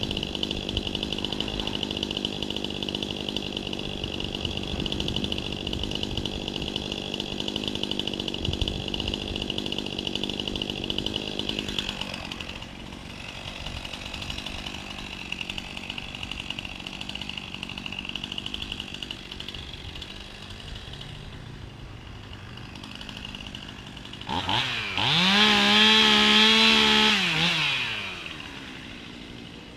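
Two-stroke chainsaw held at high revs, steady and loud, then dropping to a quieter idle about twelve seconds in. Near the end it is revved up once, its pitch rising, holding for a few seconds, then falling back to idle.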